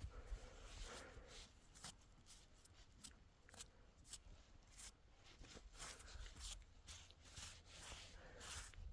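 Hands scooping and packing snow: faint, irregular crunches and rubs.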